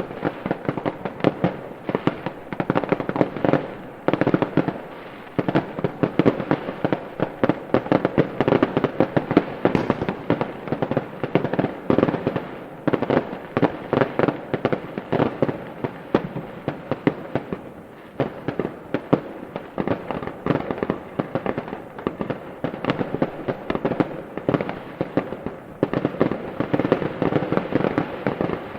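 Fireworks going off in a dense, continuous barrage of rapid pops and bangs, many overlapping each second.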